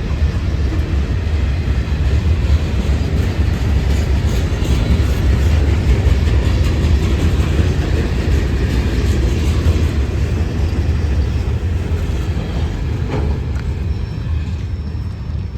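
CSX local freight train rolling past: a steady rumble of wheels on rail with scattered clicks, easing off over the last few seconds.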